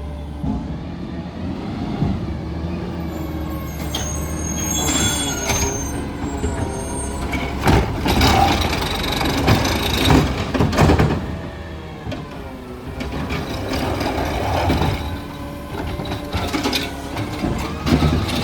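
Garbage truck collecting green waste, its engine running steadily, with a loud noisy stretch about eight to eleven seconds in and scattered knocks.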